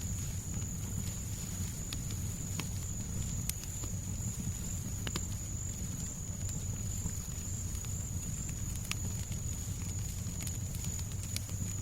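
Fireplace crackling: scattered sharp pops over a steady low rumble of background noise, with a thin high steady tone above it.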